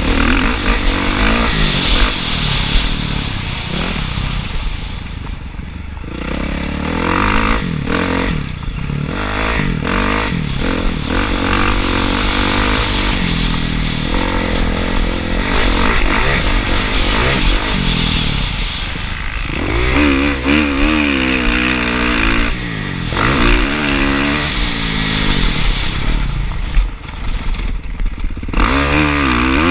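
Motocross dirt bike engine heard onboard, revving up and down over and over as the throttle opens and closes around the track, with wind noise and rattling over it.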